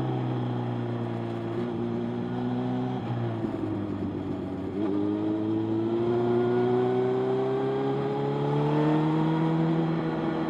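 Motorcycle engine under way: its note falls as it slows over the first few seconds, then from about halfway through it rises steadily as it accelerates.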